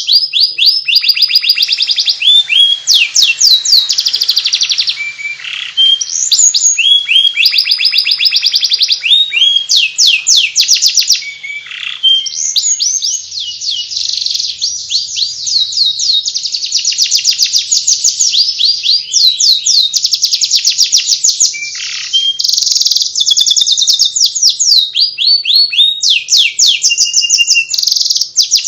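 Domestic canary singing 'ngeriwik', a long, continuous twittering song of fast trills and sweeping notes. The song breaks off briefly a few times and then carries straight on.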